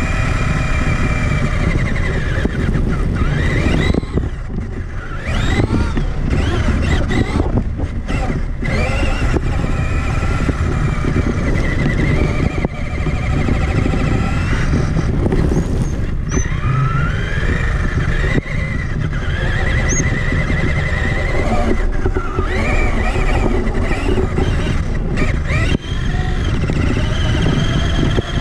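Traxxas Summit 1/10-scale electric RC truck's motor and geartrain whining, rising and falling in pitch with the throttle, over a steady rumble from the chassis and tyres. The whine eases off briefly about four and eight seconds in.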